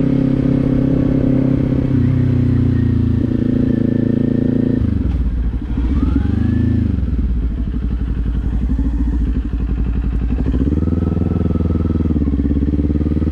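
Kawasaki Z400's parallel-twin engine running on the move, with heavy wind noise buffeting the microphone. About five seconds in, the engine note drops as the throttle is eased off. It rises again about eleven seconds in.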